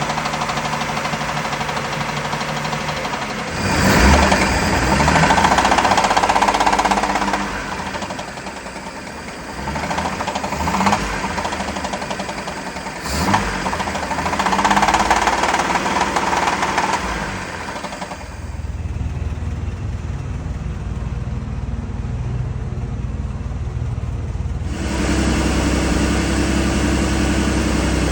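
Volvo Penta marine engine idling, then revved up twice for a few seconds each with a short blip in between. It then settles into a deeper, steady run that changes abruptly again near the end.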